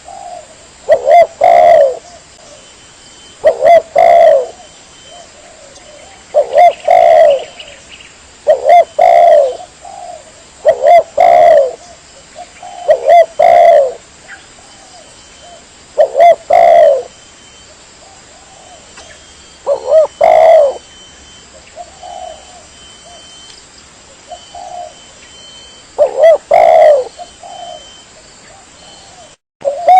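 Spotted dove (tekukur) cooing, repeating its short cooing phrase every two to three seconds, with a few softer coos in a lull past the middle.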